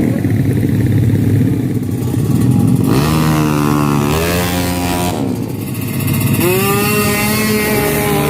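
Drag-racing motorcycle engines revving hard, rough at first, then climbing sharply in pitch about three seconds in and again about six and a half seconds in.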